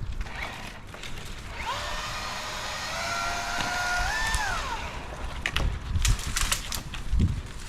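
An engine revs up, holds, steps up higher, then drops back down over about three seconds, followed by a few sharp clicks and knocks.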